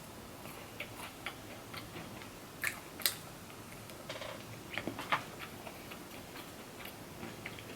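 Quiet eating sounds: soft chewing with irregular small mouth clicks and smacks, a few louder ones around the middle.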